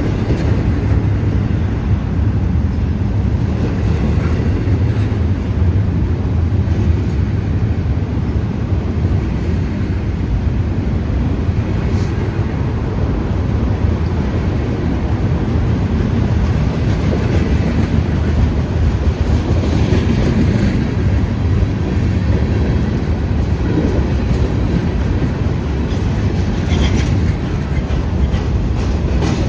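Freight train's cars rolling past at steady speed, a continuous low rumble of wheels on the rails, with mixed freight cars following intermodal cars.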